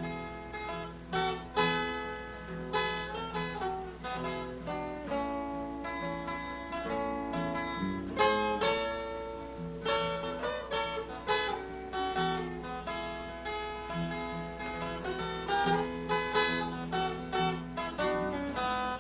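Acoustic guitar playing an instrumental break in a slow country song: a picked melody of quick notes that ring on, over a faint steady low hum.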